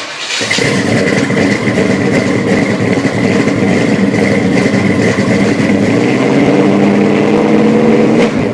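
1967 Pontiac GTO's V8 engine running steadily, with a steady high whine over it and a slight swell near the end.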